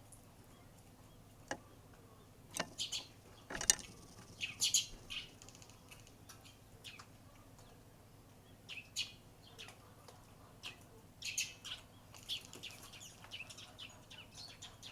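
Eurasian tree sparrows chirping in short scattered bursts, busiest around a third of the way in and again near the end. A few sharp taps stand out in the first few seconds, the loudest one about four seconds in.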